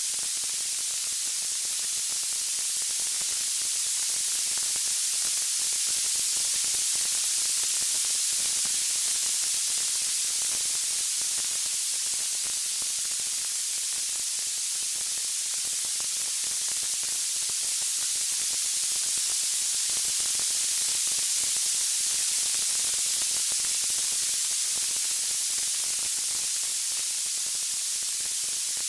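Steady, even high hiss like white noise, from a wood-fire sleep ambience track; no separate crackles or pops stand out.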